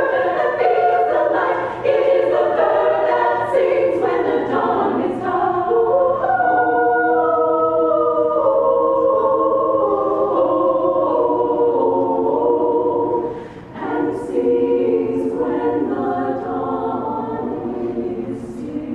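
A choir singing in sustained multi-part harmony, with crisp 's' consonants and a short breath break about two-thirds of the way through.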